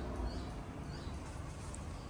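A few short, high chirps, like a bird calling, about three in two seconds, over a steady low rumble.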